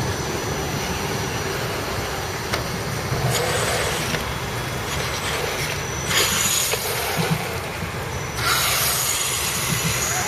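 Radio-controlled off-road trucks' electric motors running with a thin, steady high whine, and two louder bursts of hiss about six and eight and a half seconds in.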